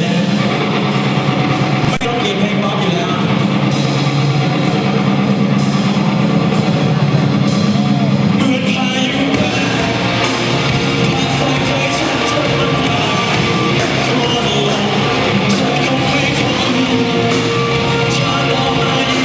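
Rock band playing a song with singing and guitar, getting fuller and brighter about halfway through.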